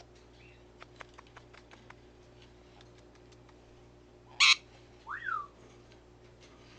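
Pet parrot calling: one short, loud, harsh squawk about four seconds in, followed by a brief whistle that rises and then falls. A few faint clicks come before it.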